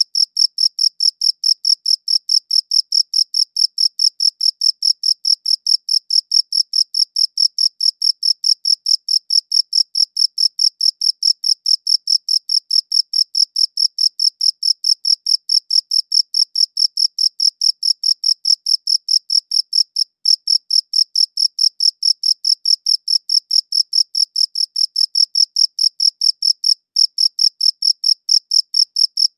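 A cricket chirping in a fast, even, high-pitched pulse train, about four chirps a second, with two brief breaks in the rhythm.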